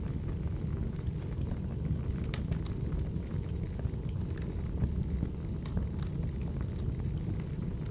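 Firewood burning in a fire: a steady low rumble with scattered sharp crackles and pops.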